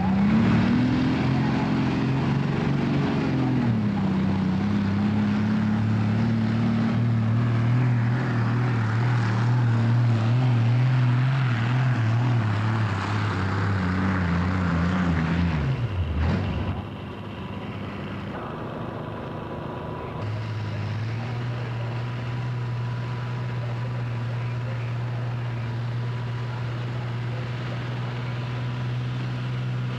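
Pulling tractor's engine revving up and running hard under load for about sixteen seconds, then dropping off sharply and settling to a steady, lower run.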